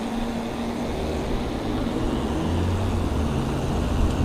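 Road traffic: a motor vehicle's engine droning low, building from about a second in and growing slowly louder, over a steady rushing noise.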